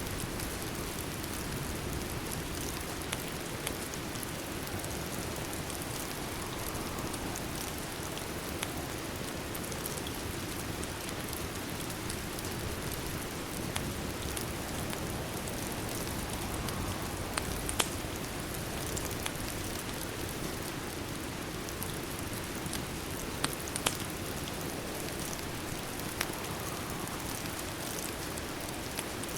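Steady rain falling, mixed with a crackling wood fire whose sharp pops come now and then, a few louder ones about two-thirds of the way through.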